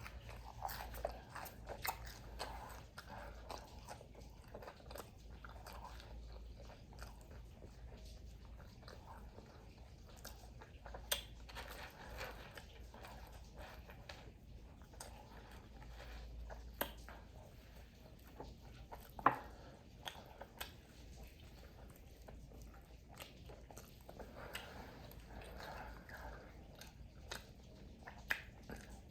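A person chewing and biting into crispy fried food close to the microphone: wet chewing with many sharp crunches. A louder crunch comes about 11 seconds in and another about 19 seconds in.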